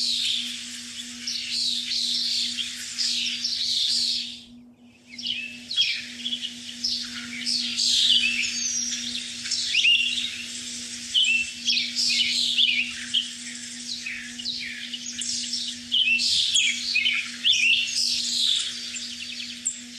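Many small birds chirping and twittering at once in a dense, overlapping chorus, broken off briefly about four and a half seconds in. A steady low hum runs underneath.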